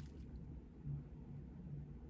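Soft, wet chewing with the mouth closed on a bite of a cheese-filled Korean corn dog, with a few faint crunches right at the start as the crust gives way.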